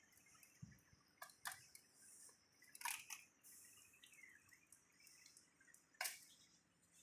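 Near silence with a few faint, sharp clicks, the loudest about six seconds in.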